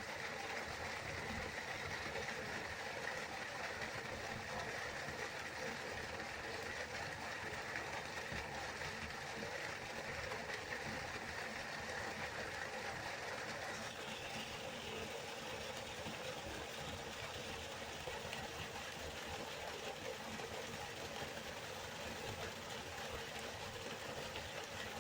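Waterfall: water falling and rushing steadily, with an even, unbroken sound whose tone shifts slightly a little past halfway.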